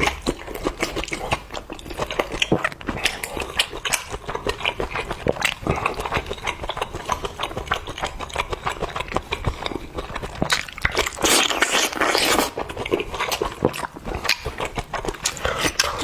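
Close-miked eating: wet chewing and smacking in quick, irregular clicks, with a longer slurp around eleven to twelve seconds in.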